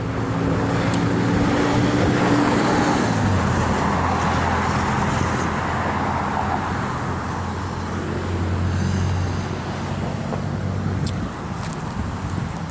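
Road traffic: motor vehicles running with a steady low engine hum, and cars passing with a swell of tyre noise a few seconds in and again briefly later.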